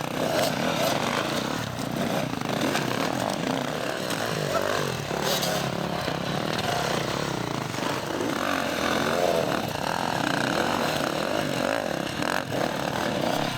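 Dirt bike engines revving up and down, the pitch rising and falling repeatedly as the bikes accelerate and back off.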